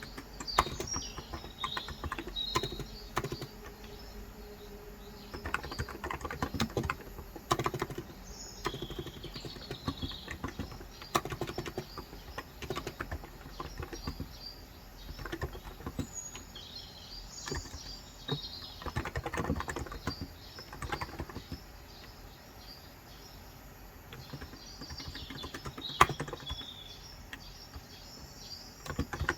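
Typing on a COX Endeavour electro-capacitive (contactless) 35 g tenkeyless keyboard: keystrokes in irregular runs with short pauses. Birds chirp in the background in several short bursts.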